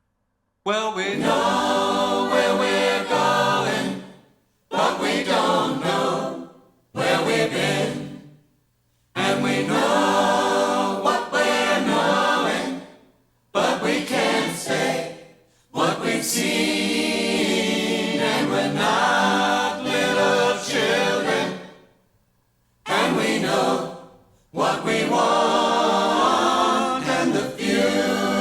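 Music: a choir singing without accompaniment, in phrases broken by brief silences.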